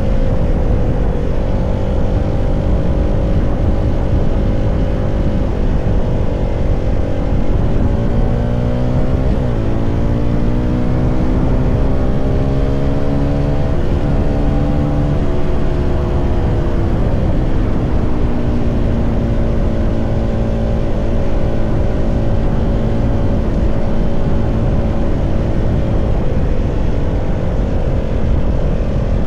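CFMoto 300SR's single-cylinder engine running. Its note holds steady, rises and falls several times through the middle, then settles again, over a constant low rushing noise.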